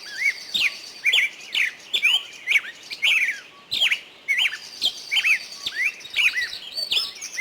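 Several small birds chirping busily, a rapid overlapping stream of short high notes, many of them quick downward sweeps and hooked upslurs.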